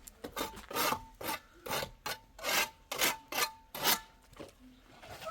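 Rapid back-and-forth rasping strokes, about three a second, stopping about four seconds in.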